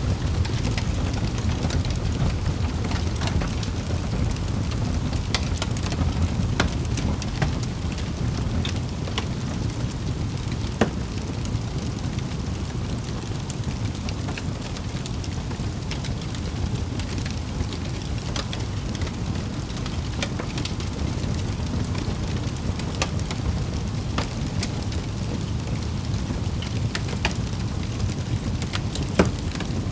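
Wood fire in a fireplace crackling, with many small snaps over a steady low rumble and two louder pops, one about eleven seconds in and one near the end.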